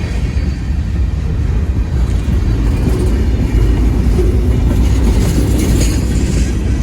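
Freight train rolling past on a curve: a steady, heavy rumble of wheels on the rails, with a brief burst of higher-pitched squeal and clatter about five seconds in.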